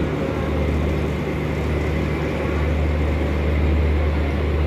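Garib Rath express train rolling slowly past, a steady low rumble and hum that grows a little louder about halfway through.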